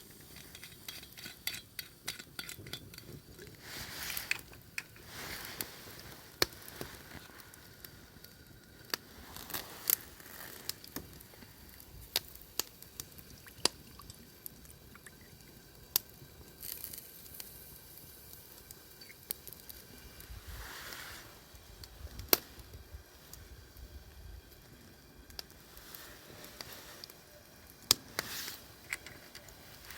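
Scattered sharp clinks of pots, dishes and utensils with soft liquid sounds of pork miso soup being handled.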